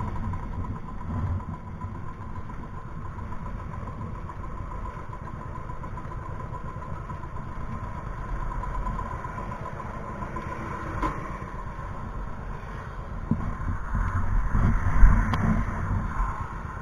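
Motorcycle engine running steadily at low revs, growing louder in the last few seconds.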